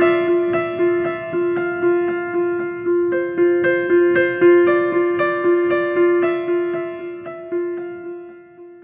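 Background piano music playing a steady run of notes over a held low note, fading out near the end.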